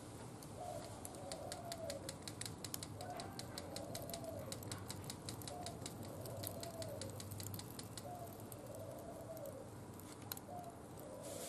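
A dove cooing over and over, low arched calls about once a second, while a wood fire crackles with a quick run of sharp pops in the middle.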